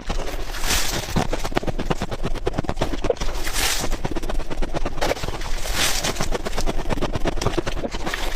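Freezer frost or ice being crunched and chewed close to the microphone: a dense, rapid crackling, with brief hissing swells about a second, three and a half and six seconds in.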